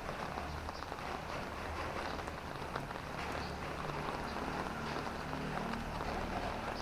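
Drizzling rain pattering steadily on the road and nearby surfaces, with scattered drips. A motor vehicle's low engine hum swells in the middle and fades near the end.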